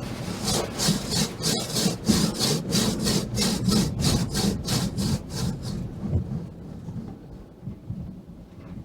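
Automatic car wash equipment swishing against the car in an even rhythm, about three strokes a second, over a steady low hum; the swishing fades out about six seconds in.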